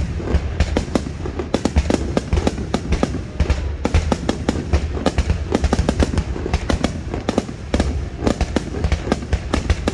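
Aerial fireworks going off in a rapid, continuous barrage, several bangs a second over a constant low rumble: the closing barrage of the display.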